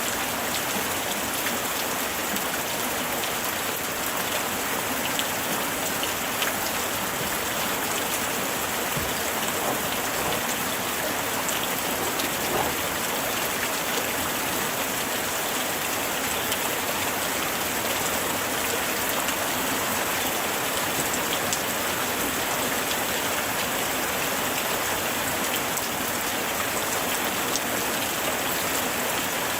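Light rain falling steadily, a continuous hiss of drops with many small pattering ticks of individual raindrops striking a surface.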